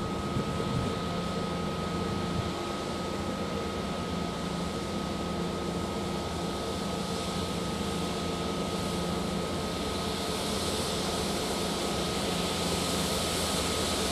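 Diesel engine of a GBRf Class 69 locomotive on a track-cleaning freight working: a steady drone with a constant hum, slowly growing louder toward the end.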